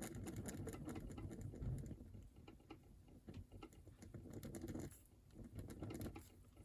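Faint, quick scratching and tapping of a drawing tool on the drawing surface, colouring in a drawing in short irregular strokes, busiest in the first two seconds.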